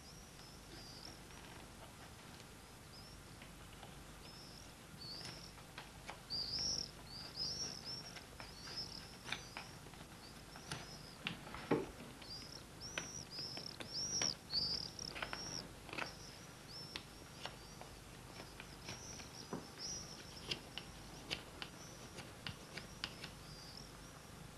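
A small bird chirping over and over in short, high, arching notes. Under it are scattered soft clicks and scrapes from a knife whittling a piece of wood.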